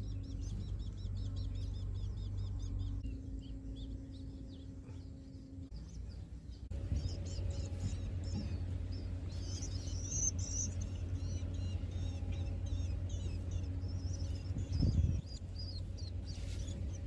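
Nestlings calling in rapid series of short high chirps, the begging calls of hungry chicks at feeding. The chirping thins out a few seconds in and comes back louder, over a steady low rumble.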